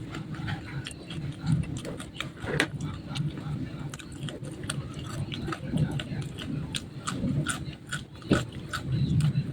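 A person chewing food loudly into a close microphone, with many short wet clicks and smacks of the mouth over a low, uneven chewing sound.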